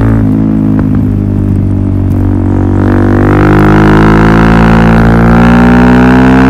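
Suzuki DR-Z400SM's single-cylinder four-stroke engine running through a Yoshimura full exhaust system. The engine note dips in the first second, then climbs steadily in pitch through the last few seconds as the revs rise.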